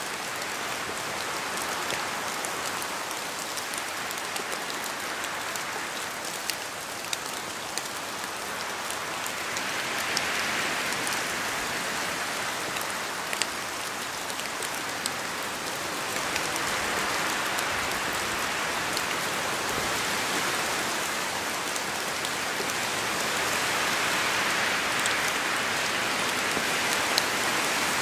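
Steady rainfall with individual drops ticking sharply on a surface, its intensity swelling gently a few times.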